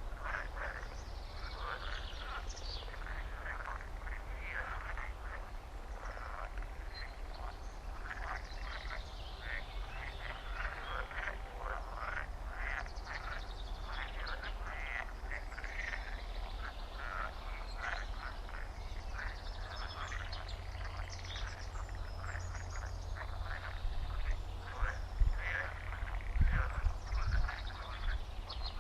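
Chorus of frogs croaking, many short calls overlapping without a break. A few louder low thumps come in near the end.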